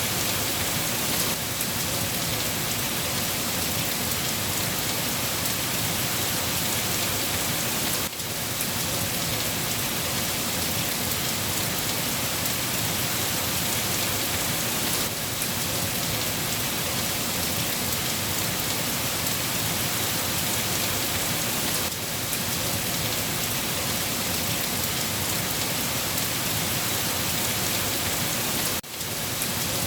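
Steady, even rainfall, a dense hiss of rain with no letting up, dipping briefly in level a few times, most plainly about 8 seconds in and near the end.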